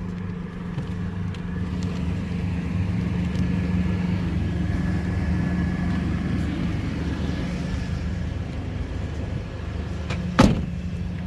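Steady low hum of motor-vehicle noise, with a single sharp click about ten seconds in.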